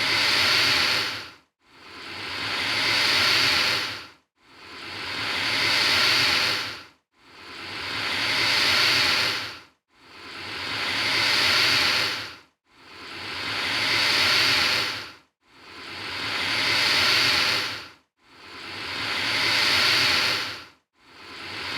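Alligator hissing: the same long, breathy hiss repeats about every two and a half to three seconds, each one swelling up and then cutting off sharply, about eight times.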